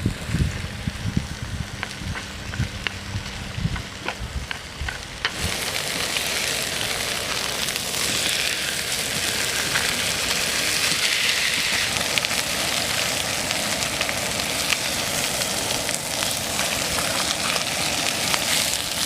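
Food sizzling in a hot pan. The sizzle starts suddenly about five seconds in and then runs on steadily, after a few seconds of low thumps and rumble.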